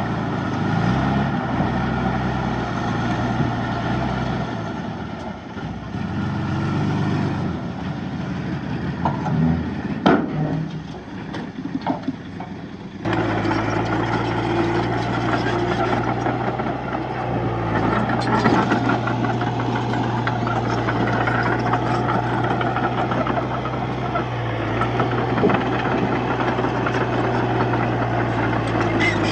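Heavy diesel engine of earthmoving machinery running and working, its pitch shifting with load, with a few sharp clanks about ten seconds in. About thirteen seconds in the sound changes suddenly to a steadier engine note.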